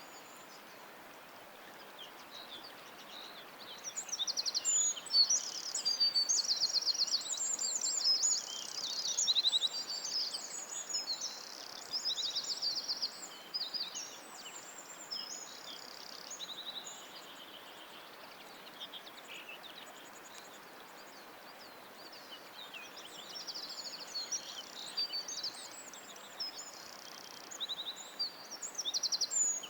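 Songbirds singing: quick high trills and chirps in bursts, busiest through the first half and again near the end, over a faint steady hiss.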